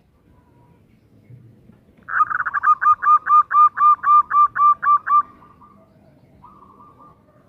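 Zebra dove (perkutut) giving a loud, fast run of about a dozen short cooing notes, roughly four a second, lasting about three seconds, then a softer drawn-out note near the end.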